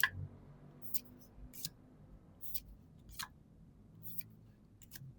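Trading cards being handled: a string of short, crisp swishes and flicks, about seven of them spaced half a second to a second apart, as cards slide and are flipped against one another.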